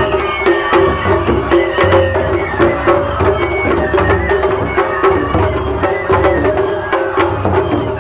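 Traditional Japanese festival music: drums beating with rapid, sharp wooden or metal clicking strikes over sustained pitched tones.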